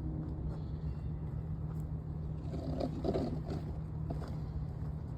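A motor or engine running steadily with a constant low hum, and a brief indistinct sound about three seconds in.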